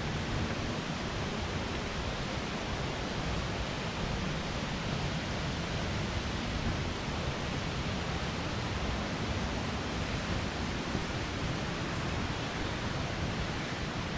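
Steady rushing of falling water, an even roar that stays at one level throughout.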